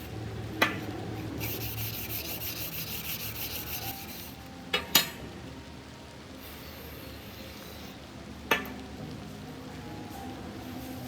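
Rapid rubbing strokes on a knife being hand-cleaned, about four strokes a second for a couple of seconds, with sharp clicks: one near the start, two in quick succession around the middle and one near the end.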